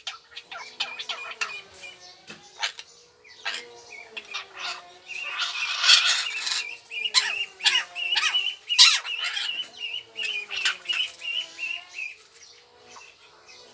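Small birds chirping rapidly, with a long warbling trill through the middle, over a steady wavering lower tone.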